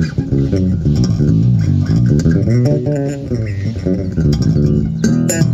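Electric bass, a Ken Smith fitted with a replacement Tone Monster preamp, played with both pickups on: a busy run of quickly changing plucked notes through an amp, cut off suddenly near the end.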